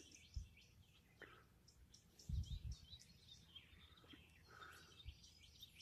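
Near silence outdoors, with faint bird chirps in the background and a few soft low bumps, the clearest about two and a half seconds in.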